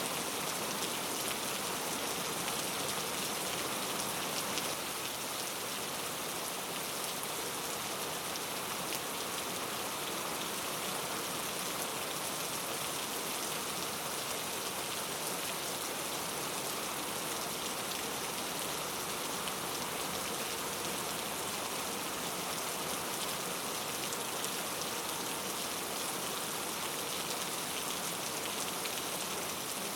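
Steady, even rain falling on foliage in a rainforest.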